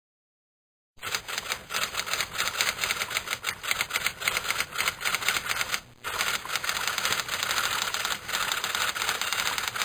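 Typewriter being typed on: rapid, uneven key strikes that begin about a second in, with a brief pause a little past the middle.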